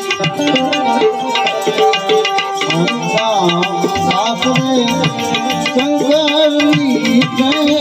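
Indian devotional music: tabla keeping a steady rhythm under a held, winding melodic line between sung verses.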